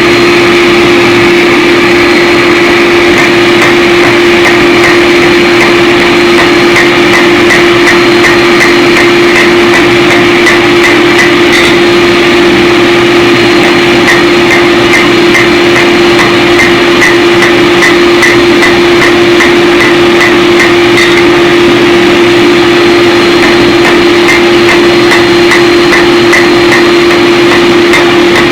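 Steady rhythm of hammer blows forging a 4142 chromoly steel tomahawk head, about three to four strikes a second with a couple of short pauses. A loud, steady machine hum runs under the blows.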